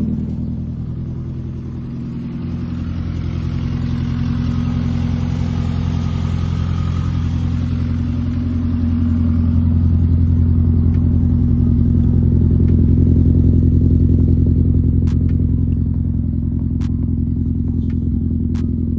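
1993 Mazda MX-5 Miata's 1.6-litre four-cylinder engine running steadily at low revs. It swells somewhat louder midway through, and there are a few light clicks near the end.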